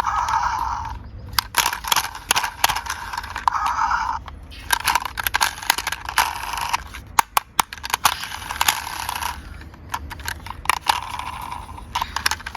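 Small toy cars rolling and clattering down a slope: stretches of rolling, scraping rumble a second or so long, broken by many sharp clicks.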